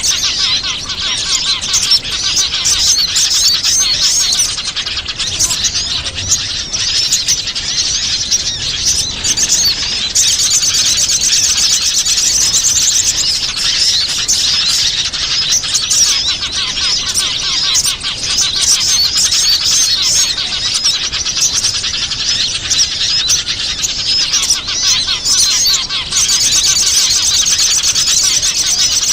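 Bird-lure recording of many small wild birds chirping and twittering together: a dense, unbroken, high-pitched chorus of calls that grows busier and more trilling about a third of the way in.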